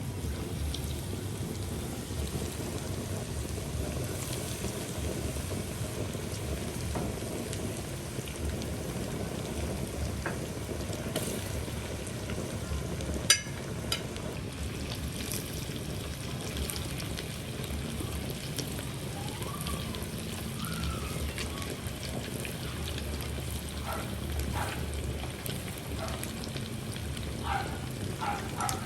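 Fish frying in hot oil: a steady sizzle and crackle, with one sharp click a little under halfway.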